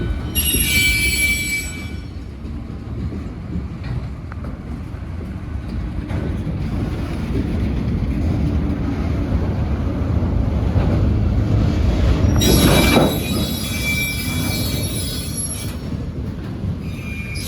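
Freight train rolling past with a steady low rumble of wheels on rail. Wheels squeal in high, thin tones in the first two seconds and again from about twelve to sixteen seconds in.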